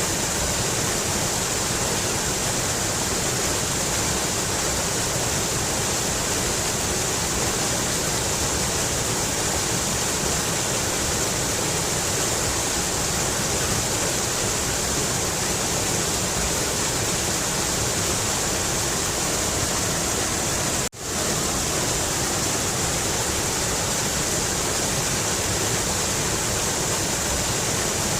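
Mountain river water rushing steadily, an even hiss, with a brief gap of near silence about three quarters of the way through.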